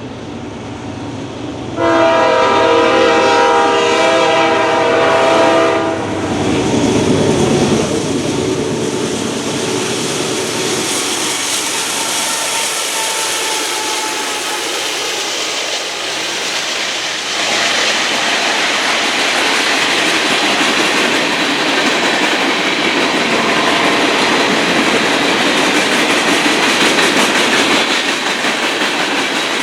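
Train horn sounding one long chord of several tones for about four seconds, then a train rolling past with steady wheel-on-rail noise and clickety-clack over the rail joints, growing louder about halfway through.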